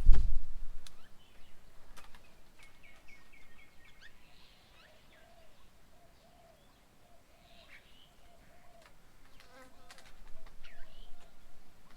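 Birds calling at a bird table: a quick run of about six high repeated notes, then a string of lower arched notes about twice a second. A thump at the very start.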